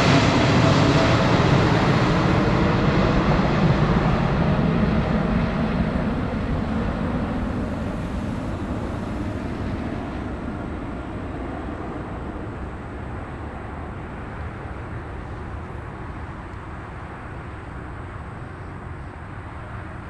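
Jet airliner's engines heard as it passes and moves away, the noise fading steadily; the high hiss dies out first, leaving a low, fading drone.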